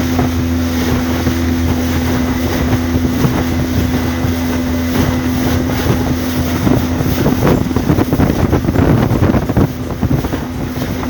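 Motorboat engine running at a steady pitch, with water rushing along the hull and wind buffeting the microphone.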